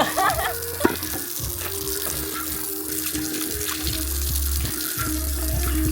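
Water running steadily from a tap and splashing, with background music.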